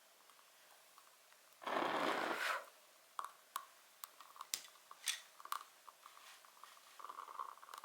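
Wood fire crackling, with irregular sharp pops and a busier patch of crackle near the end. About two seconds in, a louder rushing hiss lasts just under a second.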